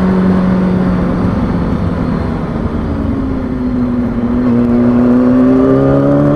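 Kawasaki ZX-6R 636 sport bike's inline-four engine running while riding, with wind rushing over the helmet microphone. Its pitch sags a little, then climbs again from about two-thirds of the way through.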